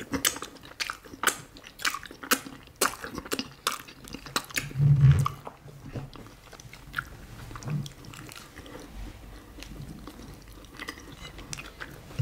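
Close-miked wet chewing and lip-smacking as fufu and banga soup are eaten by hand, with quick mouth clicks over the first few seconds that thin out later. About five seconds in there is a short low hum, the loudest sound.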